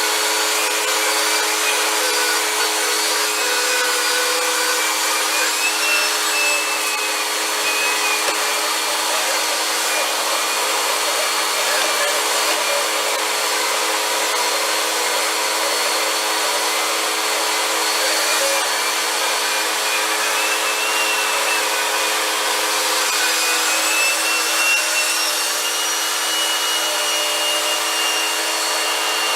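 Vacuum cleaner running steadily, its motor whine wavering slightly in pitch.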